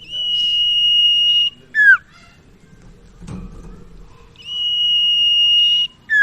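Sirtu (cipaw) bird singing two whistled phrases. Each is a long, steady, high whistle lasting about a second and a half, followed by a short, sharply falling note.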